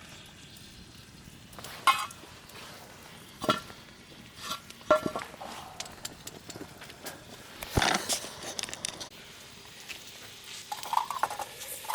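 Utensils clinking and knocking against a metal cooking pot as the oden is handled, a few sharp strikes with lighter taps between them.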